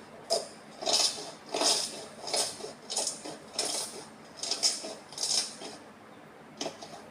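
Slime being squished and pressed by hand: a run of short sticky clicks and crackles, roughly one to two a second, with a short pause about six seconds in.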